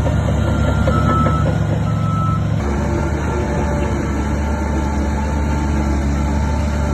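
Heavy diesel earthmoving machinery running with a steady low rumble, while a reversing alarm beeps in short tones during the first couple of seconds. The engine sound changes abruptly about two and a half seconds in.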